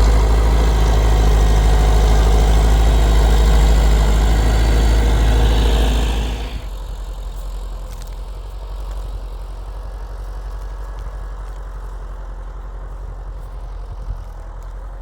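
Tractor engine running steadily and loudly. About six seconds in it drops sharply to a much quieter, steady low hum.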